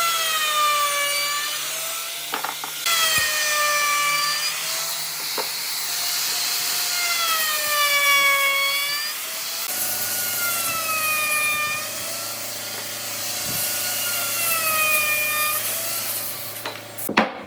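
Handheld electric power tool cutting or abrading wood, its motor whine dipping and recovering in slow swells every couple of seconds as it is pushed into the wood and eased off. It stops abruptly near the end with a couple of knocks.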